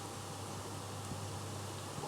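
Steady background hiss with a constant low hum and no distinct event: room tone.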